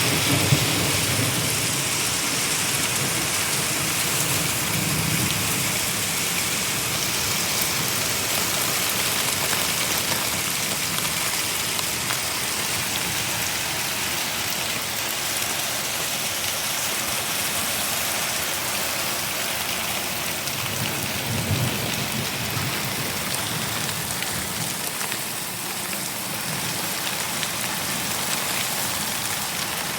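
Steady rain pouring down in a thunderstorm, with a few brief low rumbles.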